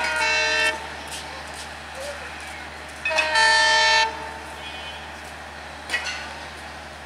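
Diesel locomotive's horn sounding two blasts: a short one at the start and a longer, louder one about three seconds in, each a chord of several steady tones. A brief sharp sound follows about six seconds in.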